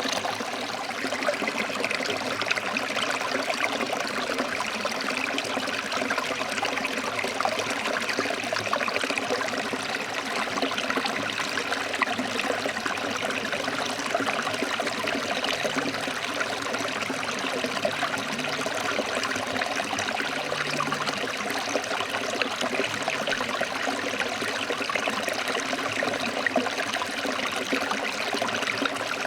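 Stream water flowing over rocks, a steady rushing with no breaks.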